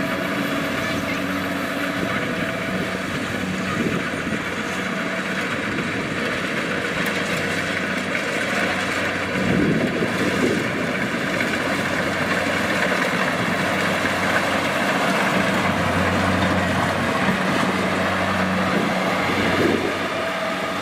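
Kubota DC-70 Plus combine harvester running steadily under load, its diesel engine and threshing machinery making a dense, continuous mechanical noise.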